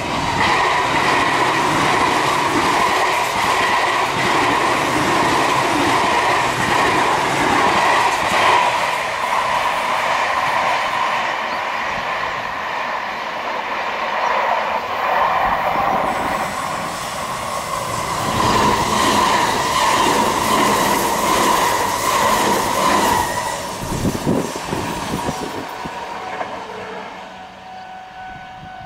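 Electric multiple-unit trains running past at close range, their wheels clattering over the rail joints, with a steady high-pitched wheel squeal ringing over the noise. The sound fades away near the end.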